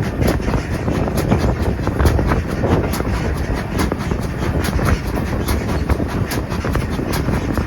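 A train running on the rails: a steady low rumble with many short clicks and knocks throughout.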